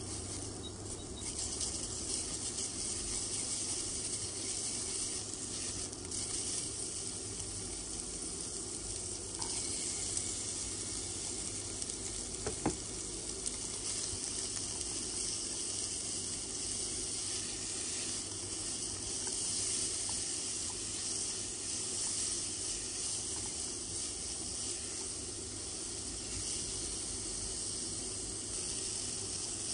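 Beef fat, then sliced onion and beef, sizzling steadily in a pot as the fat greases it for sukiyaki, with a silicone spatula stirring the food. A single sharp tick comes about halfway through.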